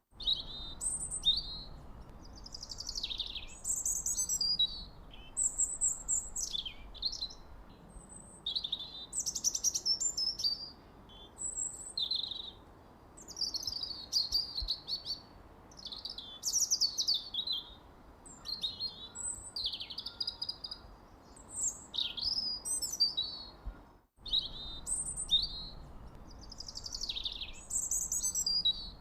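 Songbirds chirping and singing: short, high whistled phrases and quick trills, many sweeping down in pitch, following one another with brief gaps. A momentary cut to silence comes a little before the end.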